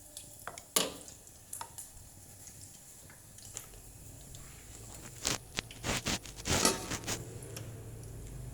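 Shrimp being handled in wet batter: soft squishing, with scattered sharp clicks of a utensil against a bowl, the loudest about a second in and a cluster of them around five to seven seconds in.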